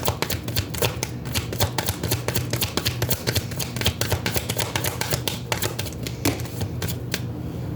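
Tarot cards being shuffled by hand: a fast, dense run of light card clicks and flicks that thins out near the end, over a steady low hum.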